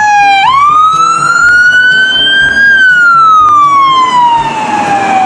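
Ambulance siren on a slow wail: one loud tone rises for about two seconds, then glides slowly down, and begins to rise again at the very end.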